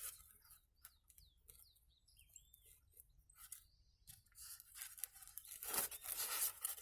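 Styrofoam sheet being handled and rubbed, making a scratchy rustle that builds over the last couple of seconds. A few short bird chirps come before it.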